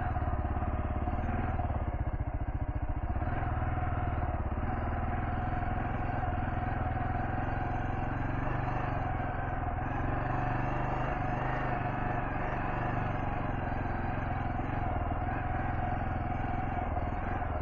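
Kawasaki KLR650 S single-cylinder engine running at a steady pace as the motorcycle is ridden off-road.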